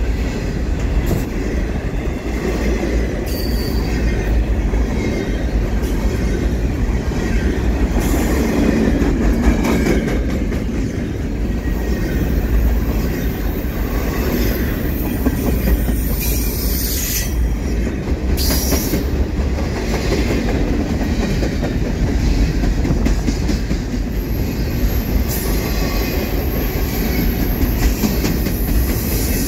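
Double-stack container train's freight cars rolling past close by: a loud, steady rumble of steel wheels on rail with repeated clicks, and a thin high wheel squeal in the last few seconds.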